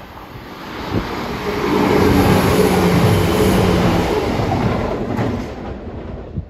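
A diesel train passing close by, its engine note and wheel-on-rail noise swelling to a peak and then easing off, with a couple of sharp clicks from the rails.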